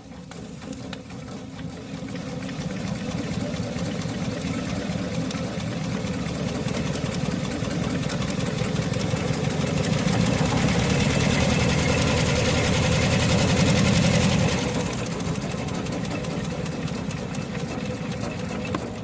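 Lykamobile steam car's twin-cylinder steam engine running, with a fast, even beat of exhaust chuffs. It grows louder about halfway through and eases off at around three-quarters of the way.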